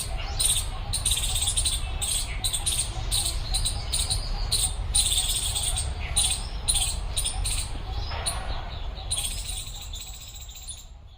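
Small birds chirping sharply and repeatedly, two or three short calls a second, over a low rumble: alarm calls at a cat prowling nearby. The sound fades out at the end.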